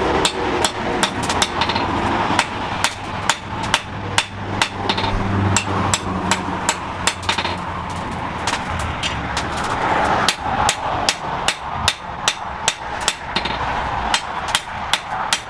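Blacksmith's hand hammer striking metal on an anvil in a steady run of ringing blows, about two to three a second, over a low steady hum.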